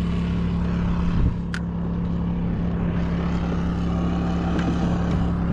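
A steady low mechanical hum, like a motor running, holding one pitch throughout, with a faint click about one and a half seconds in.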